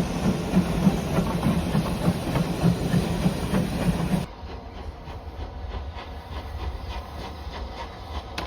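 A train running on the line, with a fast rhythmic pulsing and hiss. About four seconds in it drops suddenly to a quieter, steady run of rhythmic wheel clicks.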